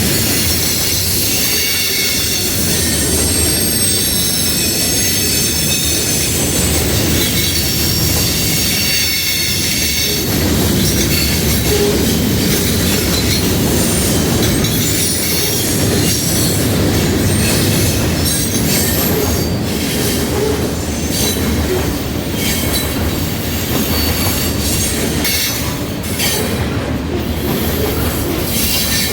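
Freight train rolling past at close range, its steel wheels squealing against the rail with thin high-pitched squeal tones through the first ten seconds or so, and sharp clicks from the wheels later on.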